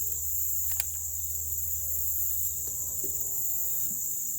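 Steady, high-pitched chorus of insects chirring, with a few faint clicks.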